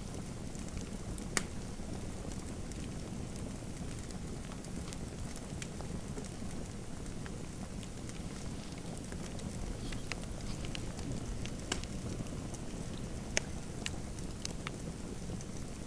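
Wood fire crackling in a fireplace: scattered sharp pops and snaps over a steady low rumble, with a few louder snaps about a second and a half in and near the end.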